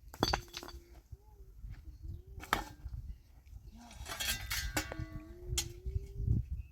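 Puppies whining in drawn-out, slightly wavering whimpers, several times over, with a few sharp clinks and knocks in between.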